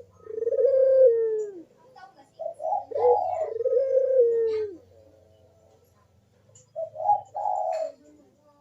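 Puter dove cooing in its full song: three drawn-out coo phrases with short pauses between them, each with low notes that slide downward at the end.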